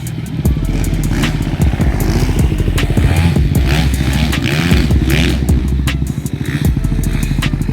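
Motocross bike engine revving, its pitch rising and falling through the middle, with frequent sharp clicks and clatter.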